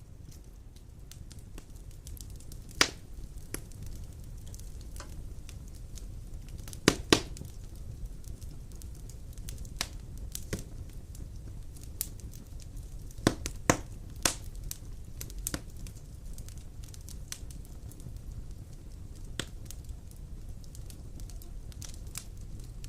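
Large wood logs burning in a fireplace: irregular crackling and sharp pops over a steady low rumble of the flames, with a few louder pops, two close together about seven seconds in.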